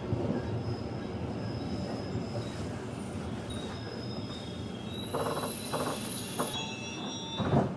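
Running noise heard inside a JR 211-series electric train: wheels rumbling on the rail with thin high-pitched squeals from the wheels and brakes, which grow stronger in the second half as the train slows. A louder knock comes near the end.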